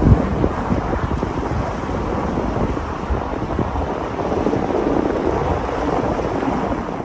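Storm wind gusting and buffeting the microphone, a steady rushing noise with irregular low surges.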